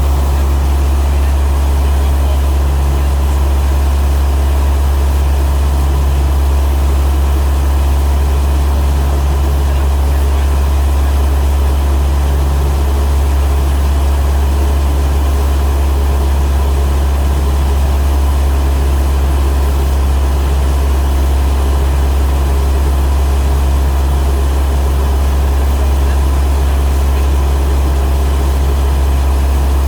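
Cessna light aircraft's piston engine and propeller running steadily, a loud, deep, unchanging drone.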